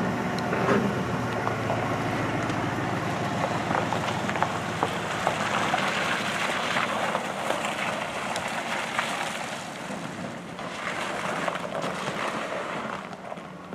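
A vehicle engine running steadily as the vehicle pulls away, its sound slowly fading over the last several seconds.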